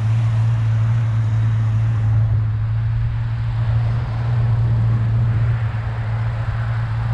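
1994 Ford Mustang convertible's engine idling steadily.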